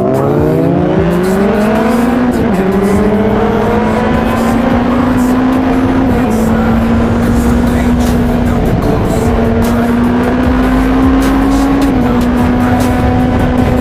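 Honda CBR600RR's inline-four engine under way, revs rising hard and then dropping sharply about two and a half seconds in as it shifts up. After that it runs at steadier revs, climbing gently, with brief dips near the middle and close to the end.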